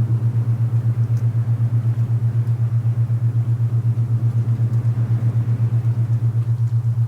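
Low steady binaural-beat tone pulsing about eight times a second, an alpha-range beat, over a soft wind hiss.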